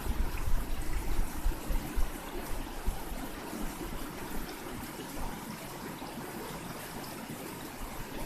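Steady rush of flowing river water, with a heavier low rumble in the first couple of seconds.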